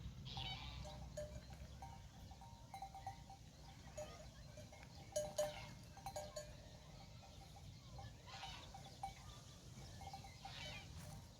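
Bells on a grazing flock of goats or sheep clinking and clanking irregularly, with a few brief animal calls, over a low steady background rumble.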